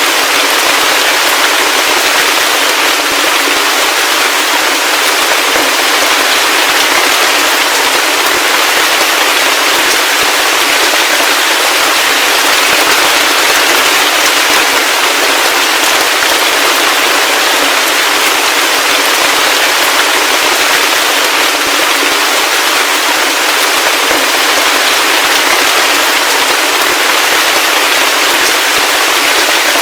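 Heavy rain falling steadily: a dense, even patter with a thin, hissy tone and no low rumble.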